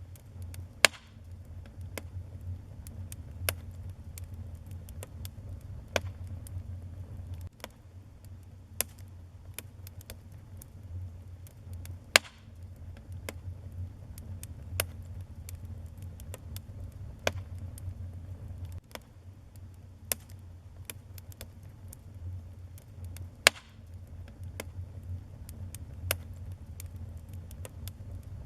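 Wood fire burning in a fireplace, crackling with frequent irregular snaps and pops. Three pops are much louder than the rest, over a steady low rumble.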